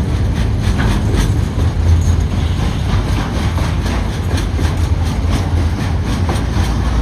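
Freight train wagons rolling past with a steady low rumble, their wheels clicking over the rail joints.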